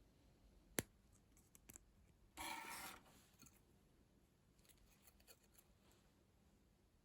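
Quiet small handling sounds: a sharp click a little under a second in, a couple of light clicks, then a short scraping rasp lasting about half a second.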